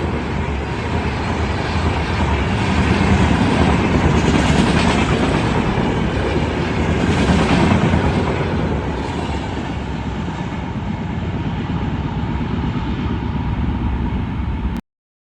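Passenger train of the Indian broad gauge running past close by at speed, a loud continuous rumble of wheels and coaches with some rail-joint clatter. It cuts off suddenly near the end.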